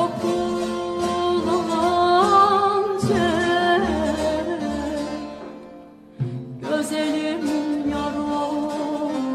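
Turkish zeybek folk music with plucked string accompaniment. A sliding, ornamented melody line leads the first few seconds, the music fades to a low point about six seconds in, and then the plucked strings start up again.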